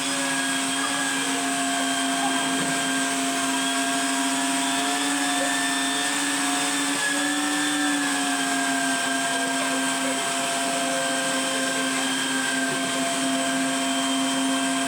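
Vacuum cleaner motor running with a steady whine, its pitch wavering slightly midway.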